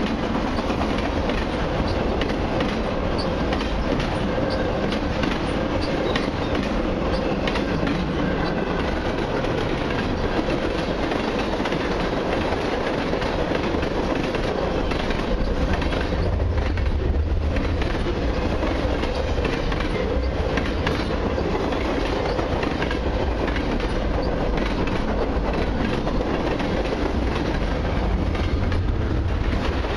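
Freight cars of a long mixed train rolling past close by, their steel wheels clattering steadily on the rails.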